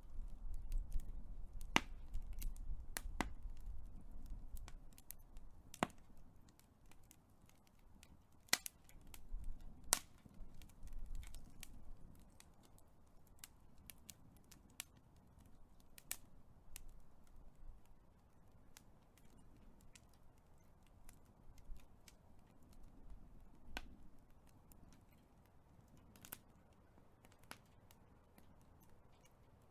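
Big wood fire crackling, with frequent sharp pops and snaps over a low rumble of flame. The rumble is heavier in the first few seconds and again around ten seconds in.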